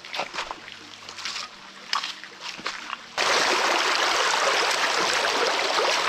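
Rushing stream water, loud and steady, cutting in suddenly about halfway through. Before it there are only faint scattered clicks and rustles.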